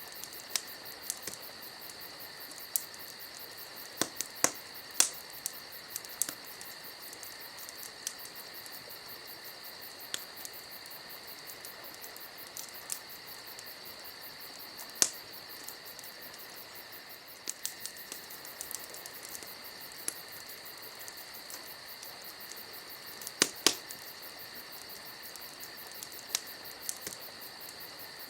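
Campfire crackling: irregular sharp pops and snaps, with a tight cluster of pops near the end. Under them runs a steady, high chirring of insects.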